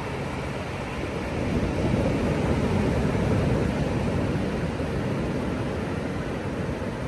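Ocean surf: a wave breaks and washes up, swelling about a second and a half in and then fading back into the steady rush of the sea.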